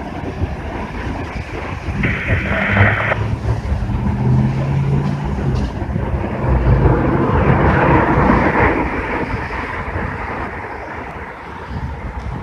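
Passing train with a low rumble and engine tones, and wind buffeting the phone's microphone. A short hiss comes about two seconds in.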